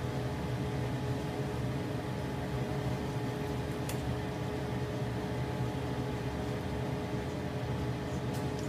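Potato frying in hot oil under a mesh splatter screen: a steady sizzling hiss over a constant hum, with a light click about four seconds in and another near the end.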